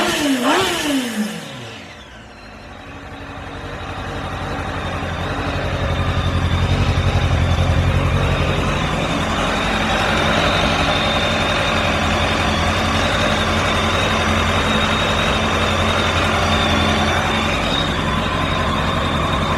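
Kawasaki ZX-10R's inline-four engine: a last throttle blip falls back in the first second or so, then the engine idles steadily. The idle grows louder over the next few seconds and then holds even.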